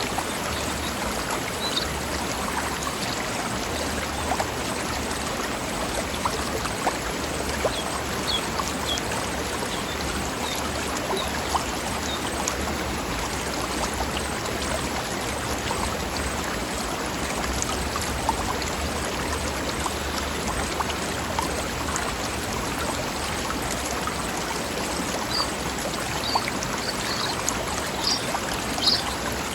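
Mountain stream flowing over rocks in a steady, even babbling rush. A few brief high chirps from birds sit over it, mostly near the end.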